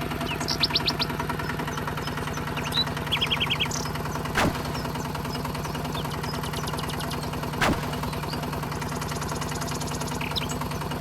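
A small motor humming steadily, with short trills of bird chirps twice early on and two sharp clicks.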